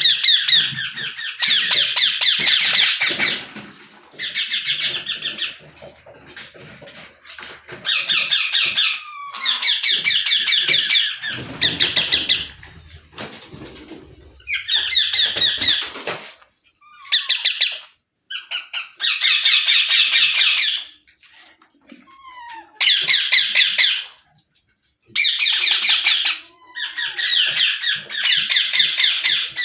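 Rose-ringed parakeet (Indian ringneck) calling in repeated bouts of rapid, harsh chattering notes, each bout a second or two long with short pauses between, and a few brief falling squeaks in the gaps.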